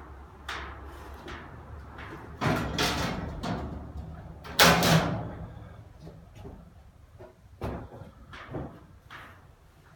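Irregular knocks and bangs, like doors or hatches being opened and shut. The loudest bang comes about halfway through, over a low hum.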